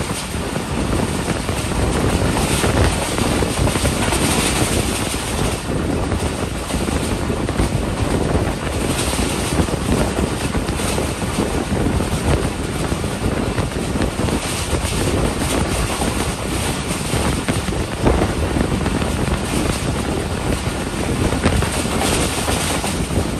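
Passenger train running at speed, heard from on board: a steady, loud rumble and rattle of the wheels on the rails, mixed with wind rushing past.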